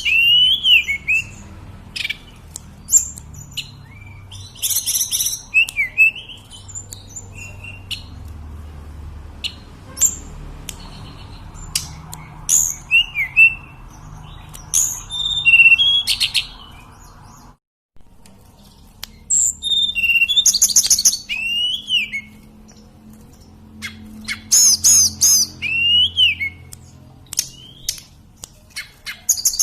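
Male hill blue flycatcher (tledekan gunung / sulingan) singing: short clear whistled phrases with sliding and warbled notes, repeated every second or two.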